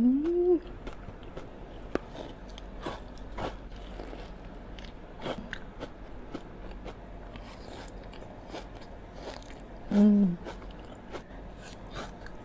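Close-miked chewing and crunching of a Dubai chewy cookie, with many small crisp crackles. Two short pitched hums stand out, a rising one right at the start and a lower one about ten seconds in.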